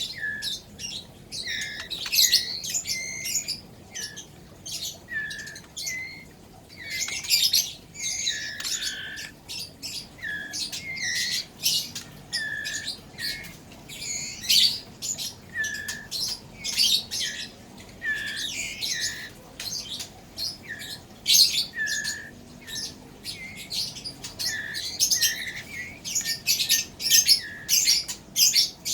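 White-rumped shama chick begging while being hand-fed: a run of short, high-pitched squawking calls repeated about once a second, many ending in a brief falling note.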